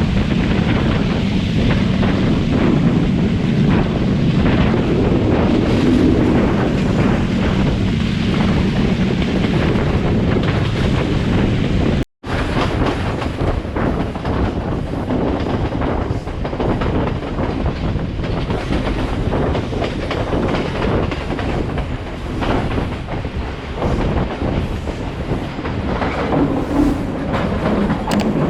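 Express train running along the line, its wheels clattering over the rail joints, with a steady low hum under the first half. The sound cuts out for an instant about twelve seconds in, then the clatter carries on.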